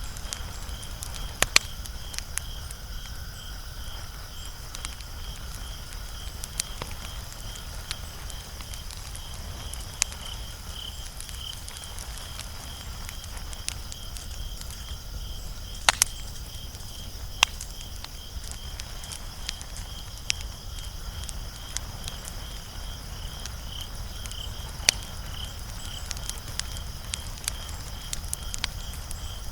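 Wood fire crackling, with scattered sharp pops, the loudest about a second and a half in and again midway, over a low steady rumble of the flames. A steady high pulsing trill runs underneath throughout.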